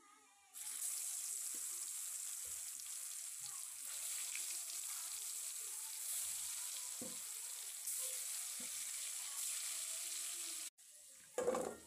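Batter-coated soya chaap sticks deep-frying in hot oil in a kadhai: a steady sizzling hiss that starts suddenly about half a second in and cuts off shortly before the end. A short loud thump follows just before the end.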